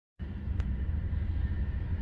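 Low rumble of an approaching diesel freight train, slowly getting louder, with a single faint click about half a second in.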